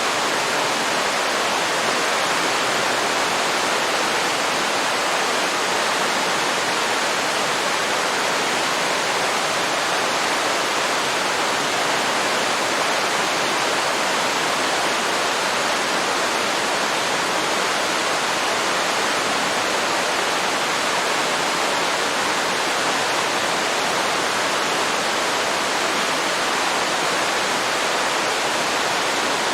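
Waterfall with steady, unbroken rushing water and no other events.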